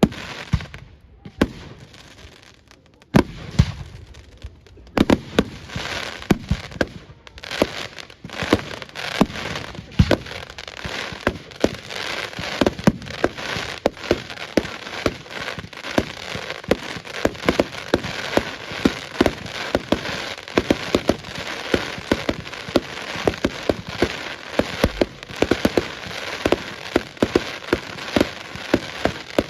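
Fireworks display: a few scattered bangs at first, then from about five seconds in a dense, continuous run of bangs and crackling.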